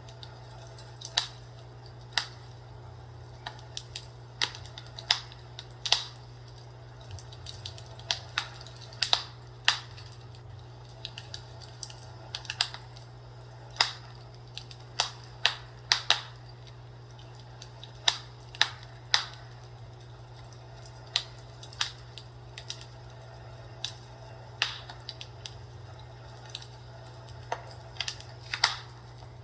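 Fireplace wood-fire crackle: irregular sharp pops and snaps, a few a second at most, over a steady low hum.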